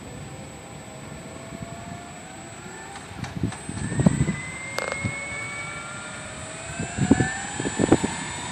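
Align 800 radio-controlled helicopter spooling up: a steady high whine with several tones rising slowly in pitch as the rotor gathers speed, and irregular low thumps.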